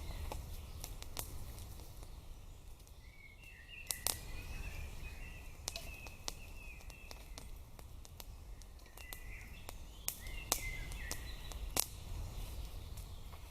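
Wood fire crackling and popping, with sharp irregular cracks a second or two apart, while small birds sing in bursts behind it.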